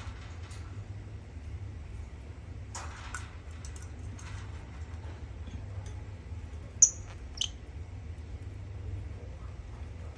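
Lovebird giving two sharp, high-pitched squeaks in quick succession about seven seconds in, over a steady low hum, with a few faint clicks scattered through.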